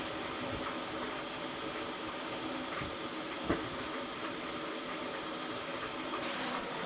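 Newly lit wood fire in a fireplace burning hard as it takes hold: a steady rush of flame with a few crackles, one sharp pop about three and a half seconds in.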